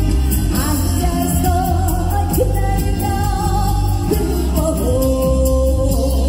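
A singer performing a Korean gugak-pop song over a backing band with a steady beat and bass, the voice holding long, wavering notes.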